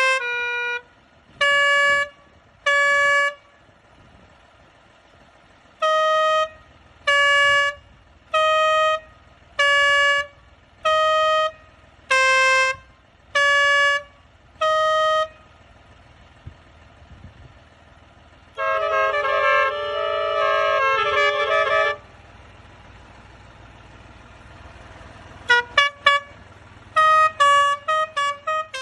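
Vehicle horn, typical of a modified tractor's add-on horn. It gives about a dozen separate blasts, roughly one a second and at slightly changing pitches, then a few seconds of rapid overlapping tones, then a string of quick short toots near the end.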